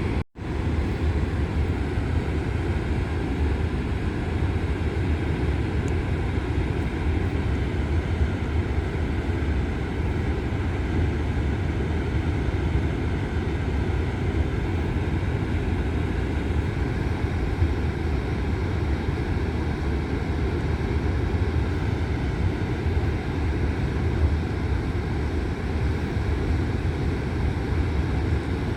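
Ohiopyle Falls on the Youghiogheny River: the steady, heavy rush of a large waterfall, deep and rumbling, with a momentary dropout just after the start.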